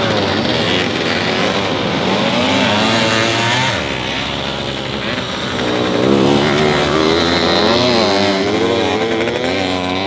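Vintage motorcycle engines revving up and down as racing bikes ride past, more than one engine at once, louder again from about six seconds in.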